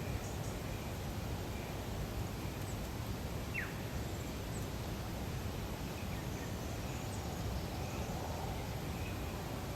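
Outdoor lake ambience: a steady low rush with faint, scattered bird calls, including one short falling call about three and a half seconds in.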